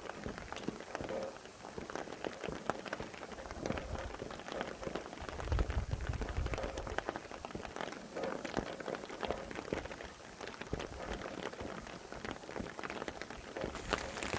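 Steady rain falling, a dense scatter of drop ticks over a hiss, with a low rumble of wind swelling briefly about six seconds in.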